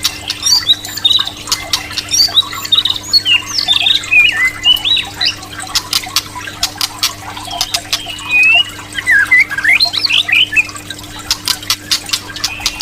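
White-rumped shama (murai batu) singing a fast, varied song of short whistled notes that slide up and down, mixed with many sharp clicks.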